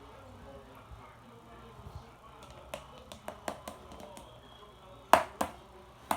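Scattered light taps and clicks, coming more often as it goes on, with two louder sharp knocks about five seconds in.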